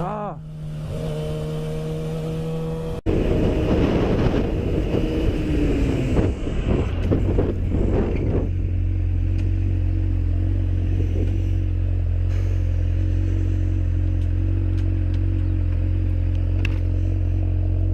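Motorcycle engine running steady. About three seconds in the sound cuts sharply to louder rushing road and engine noise, which settles into a steady low engine drone.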